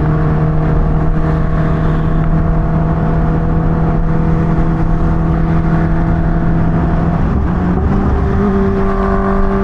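Supercharged inline-four engine of a Kawasaki Ninja H2 motorcycle running steadily at cruising speed, with wind rumble on the microphone. About seven and a half seconds in, the engine note steps up in pitch and holds there.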